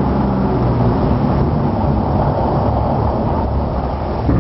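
Heavy truck engine and road noise on a highway, a steady low drone.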